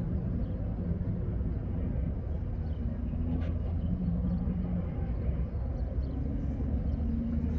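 Diesel-electric freight locomotives at the head of an arriving train, engines running with a steady low rumble and a hum that shifts in pitch as they roll slowly past.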